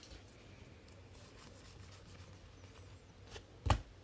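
Quiet handling of trading cards at a table, with a few faint ticks and one sharp tap about three and a half seconds in.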